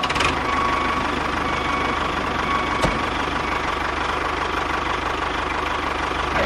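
A small motor running steadily, with a thin high whine over fast low pulsing, and a single click about three seconds in.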